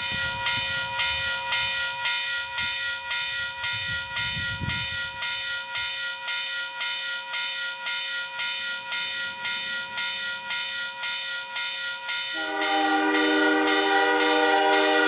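Locomotive air horn sounding a long, steady blast. About twelve seconds in, it gives way to a louder, lower chord of several notes.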